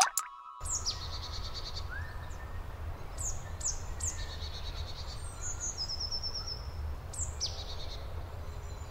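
Birds chirping: repeated quick, high, falling chirps and a short trill in the middle, over a steady low rumble of outdoor ambience. A brief rising swoosh opens it.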